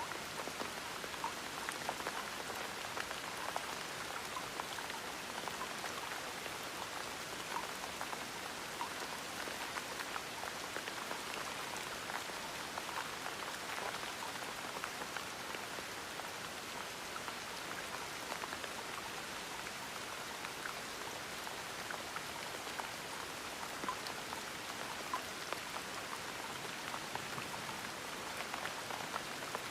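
Steady gentle rain falling, with many small drops pattering on a surface.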